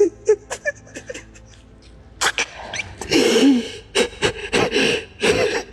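A person crying: irregular sobbing breaths and short broken cries, growing stronger after about two seconds.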